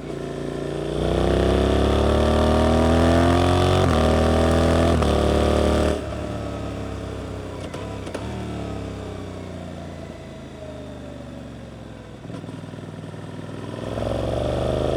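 Suzuki GSX-8S parallel-twin engine through an Arrow aftermarket exhaust, pulling hard with rising revs and two brief breaks like quick gear changes. About six seconds in the throttle shuts suddenly and the revs fall slowly on the overrun, then it pulls hard again near the end.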